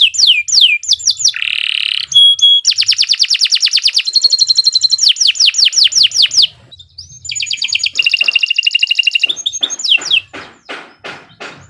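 Domestic canary singing a long, vigorous song of fast trills and rapidly repeated falling whistled notes. It breaks off briefly about halfway through, then resumes.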